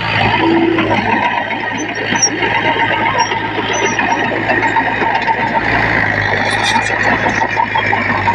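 Diesel engine of heavy earthmoving machinery running steadily under load, with a dense metallic clatter over a constant low hum.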